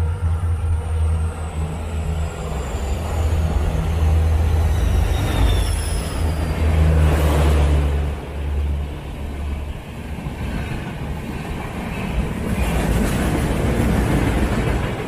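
Railway vehicle noise: a steady low engine hum that stops about eight seconds in, a swell of rushing noise just before that, and a looser rumble afterwards.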